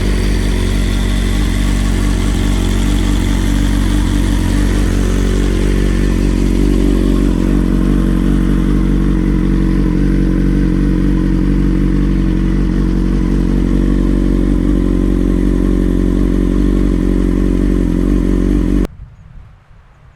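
BMW S1000XR inline-four motorcycle engine running steadily at low revs through an Akrapovic titanium header and silencer, with an even, low exhaust note. The sound cuts off abruptly near the end.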